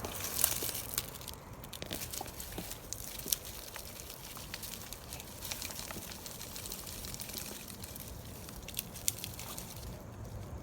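Rustling and crunching of soil and dry plant material being worked by hand, with scattered small clicks and crackles.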